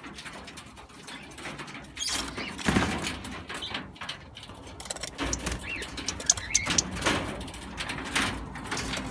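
Caged aviary birds calling: a few short chirps over irregular rustling noise.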